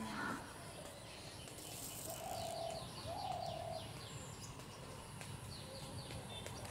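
Birds calling: a quick run of high chirps, about five a second, starting a little over two seconds in, over two lower drawn-out calls, then a few more chirps near the end. A faint low rumble runs underneath.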